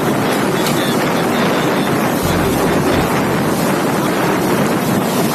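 Strong storm wind: a loud, steady rush of noise, with low gusts buffeting the microphone about two seconds in.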